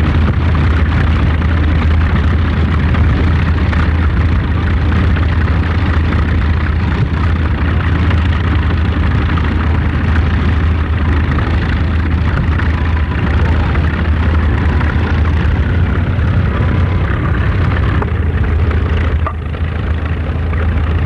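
A loud, steady mechanical running noise with a strong low hum, unchanging throughout.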